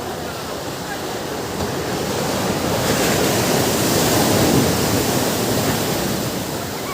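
Ocean surf: a wave builds and breaks on the shore, loudest a little past the middle, then eases off into a steady wash.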